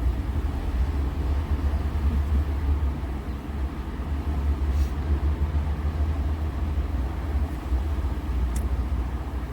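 Steady low rumble of a car's interior, engine and road noise heard inside the cabin, with a couple of faint clicks.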